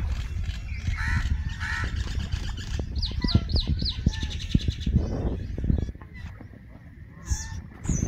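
Birds calling: a run of four quick falling whistles about three seconds in, then a fast rattling trill, and a few sharp high chirps near the end. A low rumble sits under the calls and drops away about six seconds in.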